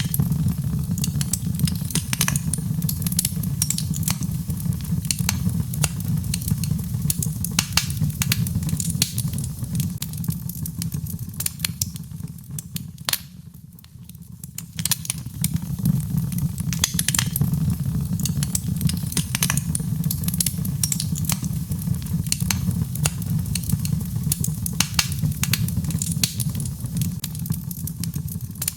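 Birchwood fire burning in a fireplace, crackling with frequent sharp pops and snaps over a steady low rumble. The crackling thins out and goes quieter about halfway through, then picks up again.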